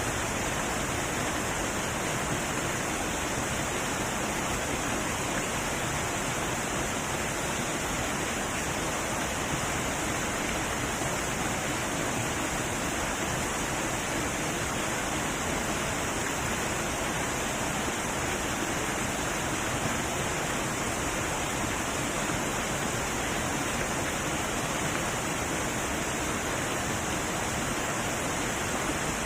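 Heavy waterfall pouring: a steady, even rush of falling water.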